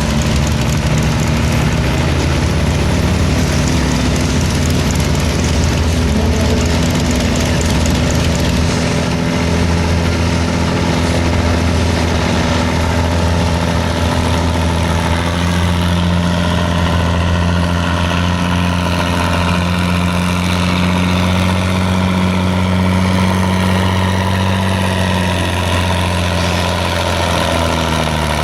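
Modified pulling tractor's engine running steadily and loud, its pitch sinking near the end.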